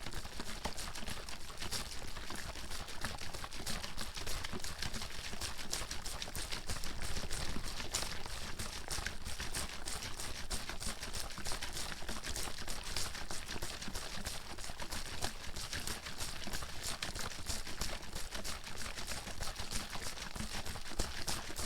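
Water bottle being shaken continuously, the water sloshing and splashing inside in a fast, busy run of small knocks with no pauses.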